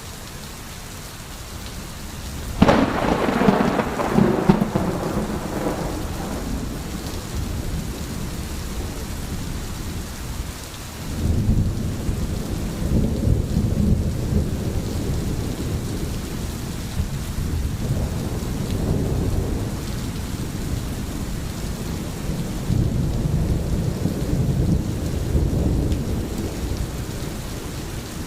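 Steady rain with thunder: a sharp thunderclap about two and a half seconds in that rumbles away over a few seconds, then further low rolls of thunder through the rest.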